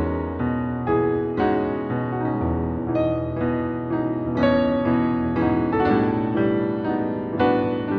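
Background piano music: a gentle melody of single notes and chords, each struck note fading away.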